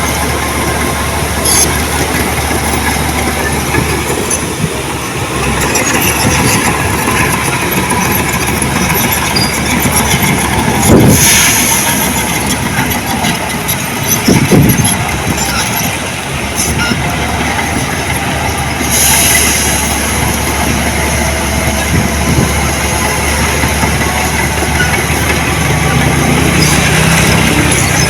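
Diesel engine of heavy earthmoving machinery running steadily under a dense mechanical clatter, with a couple of louder clanks partway through.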